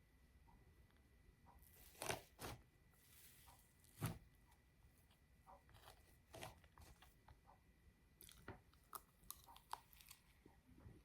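Close-up sounds of handling and eating a Japanese cake: scattered sharp crackles and clicks, the loudest about two and four seconds in, with a short tearing sound just after three seconds.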